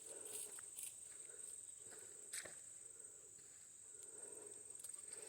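Quiet footsteps on forest floor, with soft rustles and a few small twig snaps, over a steady high-pitched insect drone.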